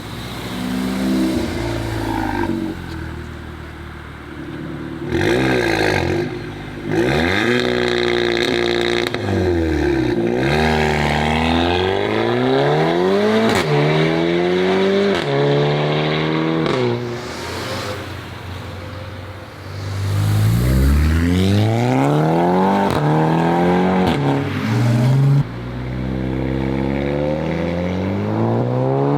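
Volkswagen car engine accelerating hard through the gears. The engine note climbs in pitch and drops sharply at each upshift, several times over.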